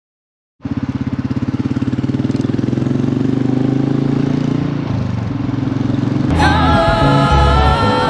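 Royal Enfield motorcycle engine running with a fast, even pulsing beat, cutting in abruptly out of silence. Music with plucked-string notes comes in over it about six seconds in.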